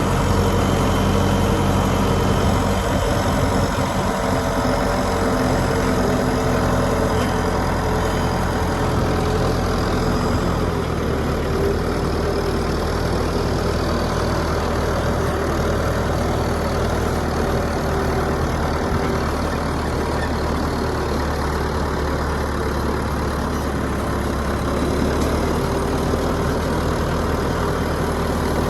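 An engine running steadily at idle, its note shifting slightly about ten seconds in.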